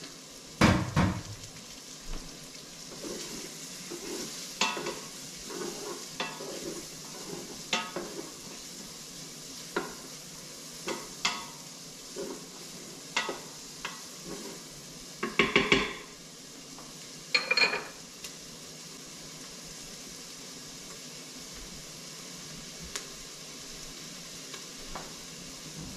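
Chopped onion and bacon sizzling steadily in the stainless steel inner pot of an Instant Pot set to sauté. A wooden spoon stirs them, knocking and scraping against the pot now and then, most loudly a little past the middle.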